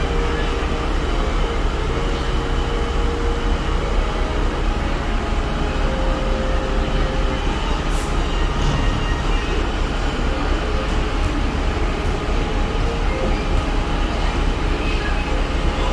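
Steady low rumble and rushing wind on the open upper deck of the Disney Dream cruise ship under way, with no horn sounding.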